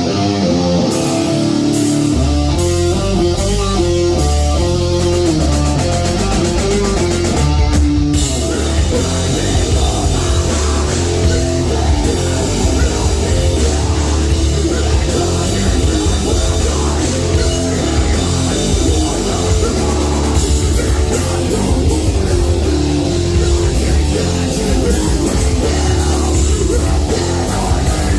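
A heavy metal band playing live, with distorted electric guitar, bass and a drum kit. A guitar riff leads at first, the bass and drums come in about two seconds in, and the full band plays heavier from about eight seconds in.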